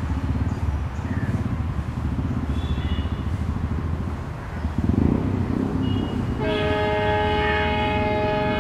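Indian Railways train running past with a heavy low rumble, then about six seconds in a locomotive horn sounds, a chord of several tones held steady to the end.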